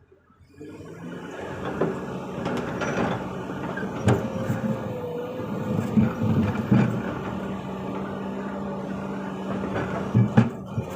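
Hydraulic excavator's diesel engine running steadily, with several knocks and thumps as the machine works. The loudest pair comes near the end. The sound starts abruptly about half a second in.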